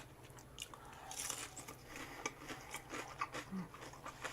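Close-miked eating of crisp deep-fried twigim (Korean fried snacks): a run of short, irregular crunches and chewing as the batter is bitten and chewed.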